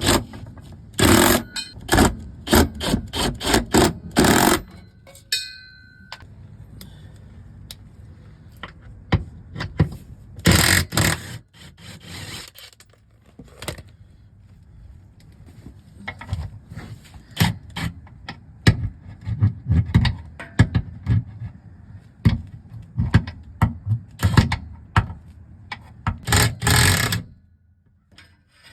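Wrench and tools working metal fasteners while the driveshaft bolts are run down and tightened: a string of clicks, clanks and scrapes, with louder bursts about a second in, around ten seconds and near the end, and a short metallic ring about five seconds in.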